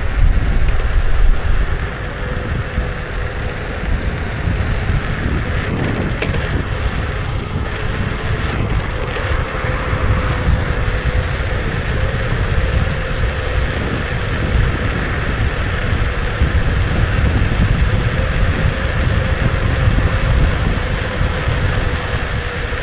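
Kukirin G2 electric scooter being ridden: wind buffeting the microphone and a low road rumble, louder for the first couple of seconds, with a faint steady whine from the motor.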